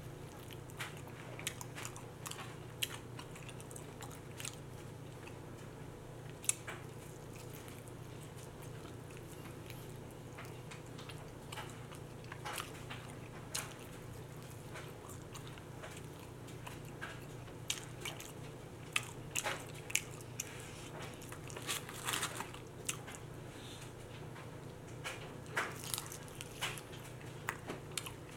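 Close-up eating of chicken wings: irregular crunches and small clicks of biting and chewing, busier in the second half, over a faint steady low hum.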